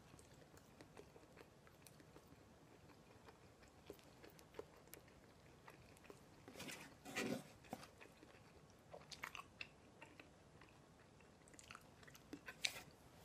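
Faint chewing of a mouthful of katsu sandwich (breaded pork cutlet in soft bread), with many small wet mouth clicks. There is a louder mouth sound about seven seconds in.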